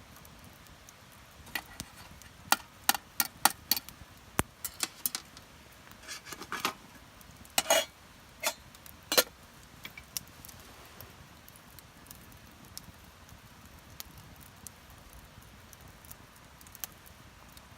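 A series of light metallic clinks and taps, some ringing briefly, as metal camp cookware or utensils are handled; they come in a cluster over the first half and then stop.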